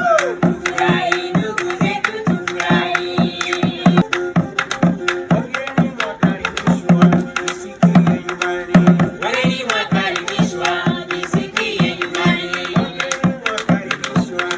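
Traditional Iraqw dance music: voices singing over fast, steady drumming.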